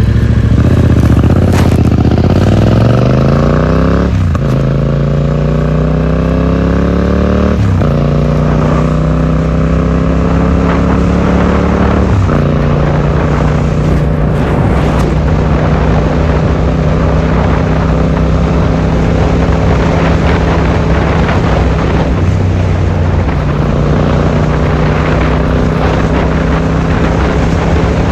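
Yamaha XSR700's 689 cc parallel-twin running through an Akrapovic exhaust, pulling away and rising in pitch through the gears with three upshifts, about 4, 8 and 12 seconds in, then cruising at a steady engine speed with wind and road noise.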